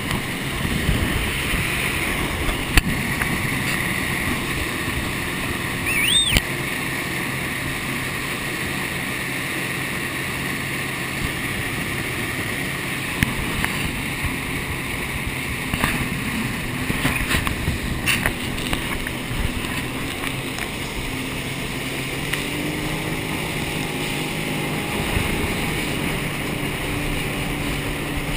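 Jet ski engine running steadily under way, with water rushing past and a few sharp knocks; the engine pitch climbs a little near the end.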